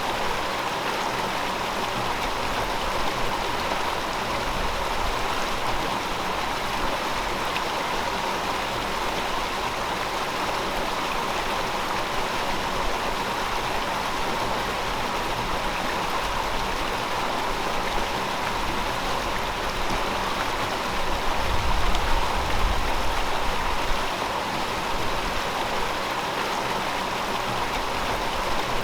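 River water flowing steadily, a continuous even rush. A brief low rumble swells up about three quarters of the way through.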